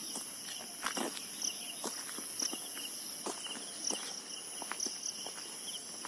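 Footsteps of someone walking along a path, irregular steps, over a continuous high-pitched chorus of insects with a chirp repeating about once a second.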